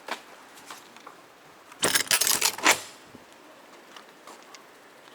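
A sharp click, then about a second of loud rattling, crackling clatter, like something being handled or jostled.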